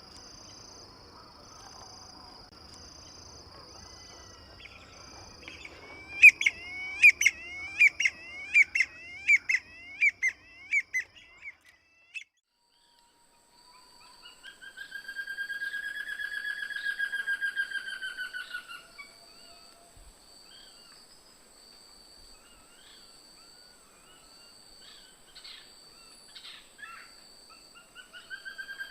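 Wild birds calling: a run of about a dozen sharp repeated notes over a steady high tone, then, after a brief gap, a long trilled call of about five seconds that swells and fades, followed by scattered short calls.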